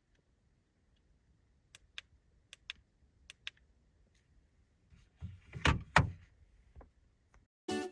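Handling noises: a few light, sharp clicks, then two quick thumps just over halfway through, the loudest moment.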